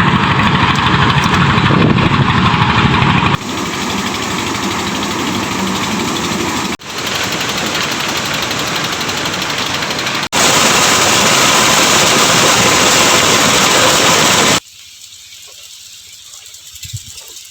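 Engine-driven corn sheller (maize thresher) running at full noise in a few short clips cut one after another; near the end the sound drops to a much quieter level.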